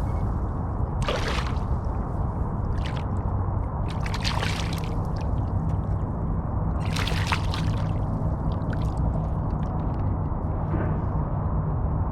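Water splashing and sloshing in several short bursts, about four or five times, over a steady low rumble.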